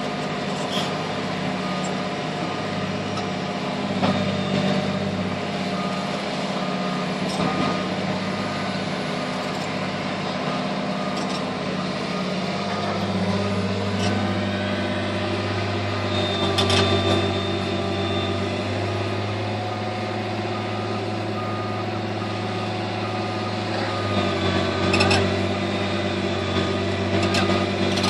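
Heavy diesel demolition machinery running steadily, its engine note rising and growing louder about twelve seconds in as it comes under more throttle, with a few short knocks.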